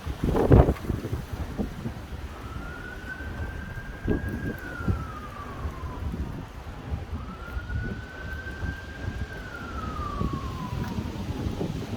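An emergency vehicle siren in slow wail, each cycle rising, holding and then falling over about four seconds, heard twice with a third beginning near the end. Gusty wind buffets the microphone throughout, with a hard blast about half a second in.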